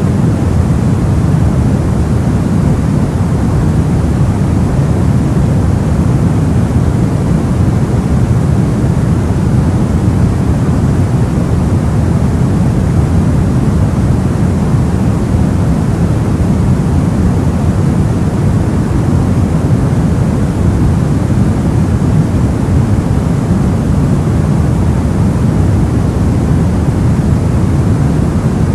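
Soft white noise: a steady, even hiss weighted toward the deep end, so it sounds muffled and rumbly rather than bright, with no change or separate sounds in it.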